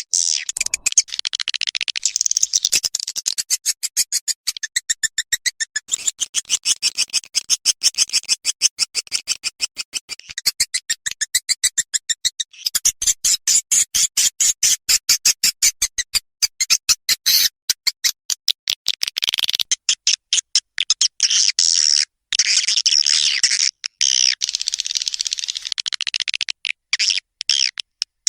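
Recorded edible-nest swiftlet calls played as a swiftlet-house lure: rapid, high-pitched chattering trills of clicks, repeated in long runs with short breaks.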